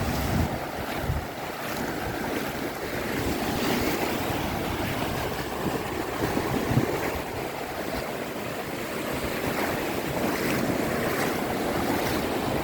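Sea waves washing onto a beach, a steady, gently swelling rush, with wind buffeting the microphone in the first second or so.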